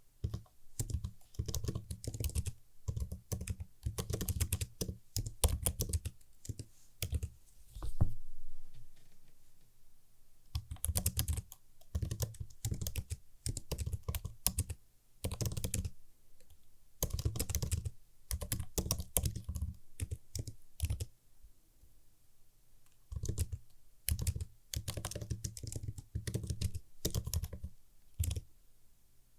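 Typing on a computer keyboard, with crisp key clicks in quick bursts broken by short pauses. There are longer lulls about a third of the way in and again about two-thirds in.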